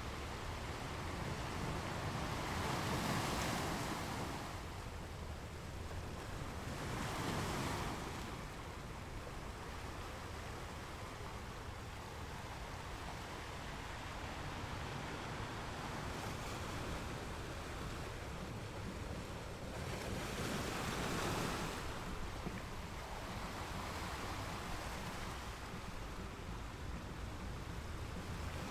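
Ocean waves breaking and washing on a beach: a continuous hiss of surf that swells into louder breaking waves every several seconds, most strongly three times.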